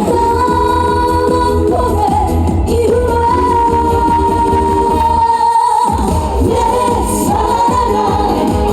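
A Korean trot song sung by a female singer over an amplified backing track with a strong beat. About two seconds in she holds one long note for several seconds, and just after it the bass drops out for a moment.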